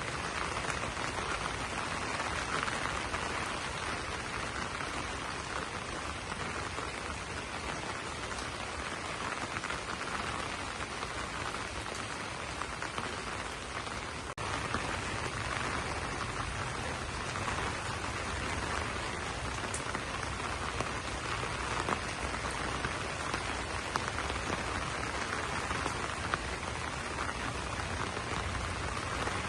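Steady rain falling on broad banana leaves. About halfway through there is a brief break, after which a low rumble sits underneath the rain.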